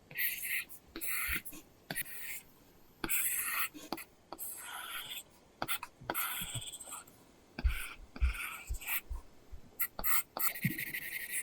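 Apple Pencil drawing on an iPad screen covered with a paper-texture film: short scratchy strokes with small tip taps between them. Near the end the strokes turn into quicker back-and-forth scratching, as in shading or colouring in.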